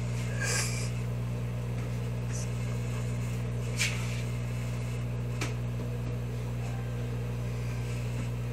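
Microwave oven running with a steady hum while heating a bar of Ivory soap, with a few faint clicks about half a second, four and five and a half seconds in.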